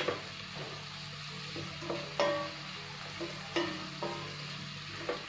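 Prawns and onion-tomato masala frying in a stainless steel pan, stirred with a spoon: a steady sizzle with a couple of sharp knocks of the spoon against the pan.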